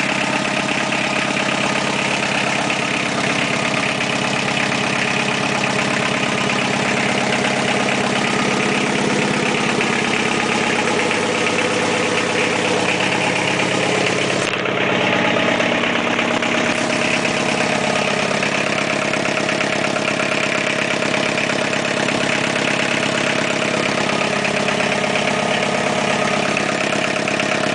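1984 Isuzu C223 2.2-liter four-cylinder diesel engine idling steadily.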